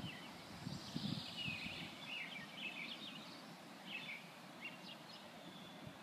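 Faint outdoor birdsong: scattered short chirps and trills from several birds, over a quiet rural background. A low rumble sounds briefly near the start.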